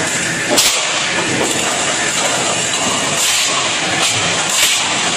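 Steady hiss of a commercial dishwashing station, with ceramic plates clattering into plastic dish racks several times.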